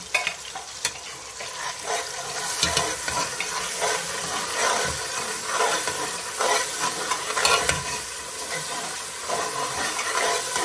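Onion, tomato and chilli masala frying in oil in an aluminium pan, sizzling steadily while it is stirred, with the metal spoon scraping and knocking against the pan at irregular moments.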